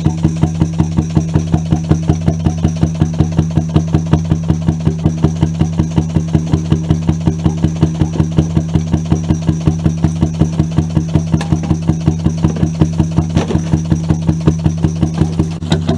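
Seffle two-stroke hot bulb engine running steadily at idle, a regular thumping beat of about three to four strokes a second.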